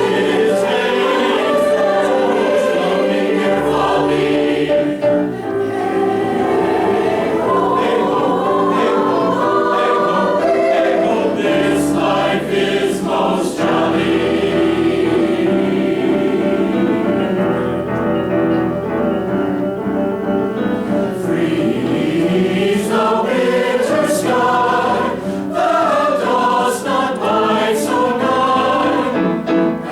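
Choir singing a choral piece in several parts, with held chords and moving lines.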